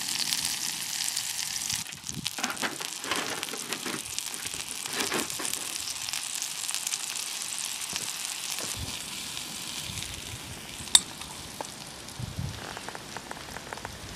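Mushrooms and garlic sizzling and crackling in a frying pan, louder for the first couple of seconds. A single sharp click about eleven seconds in.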